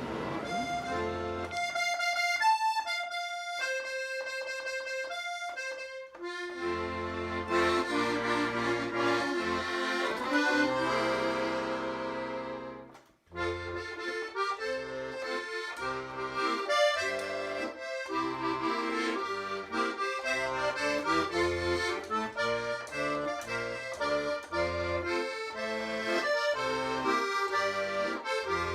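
Accordion music: a tune over a pulsing bass-and-chord accompaniment. It starts with sparse single notes, fills out after about six seconds, and breaks off for a moment about halfway through before carrying on.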